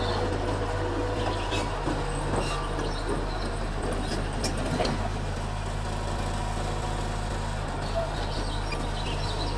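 Mitsubishi bulldozer's diesel engine running steadily under work, with a few faint metallic clanks.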